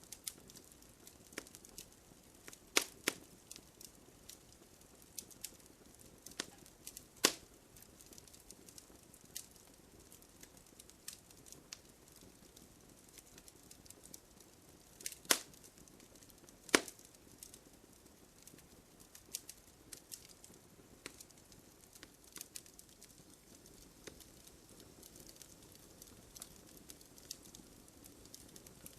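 Campfire crackling: burning wood giving off irregular sharp snaps and pops over a faint hiss, with a handful of louder pops.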